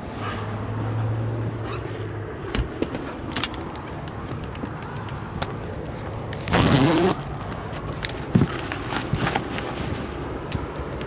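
Footsteps and handling knocks as someone boards and enters a boat's cabin: scattered clicks and thumps, with a steady low hum for the first two seconds. A brief louder sound with a wavering pitch comes about six and a half seconds in.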